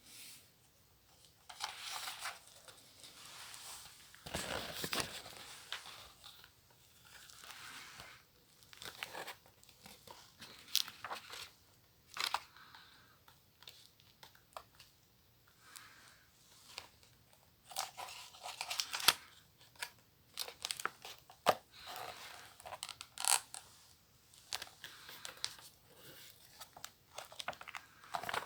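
Mailing packaging of a book parcel being torn open and crumpled by hand: irregular bursts of ripping and crinkling, a second or two each, with sharp crackles and clicks in between.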